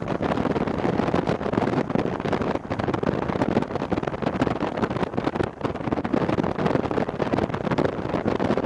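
Loud, steady wind buffeting on an action camera's microphone while riding a BMW F750GS motorcycle.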